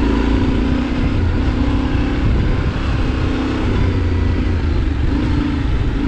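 Adventure motorcycle engine running as the bike is ridden off-road, its note coming and going every second or so with the throttle.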